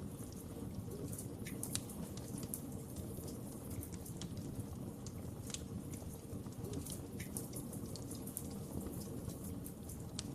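Fireplace fire burning steadily: a low rush of flames with frequent sharp crackles and pops.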